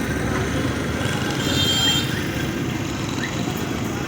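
Steady roadside traffic noise, with vehicles running past.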